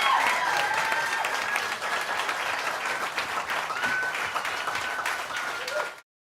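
Audience applauding after a song, with a few voices calling out over the clapping; the sound cuts off abruptly about six seconds in.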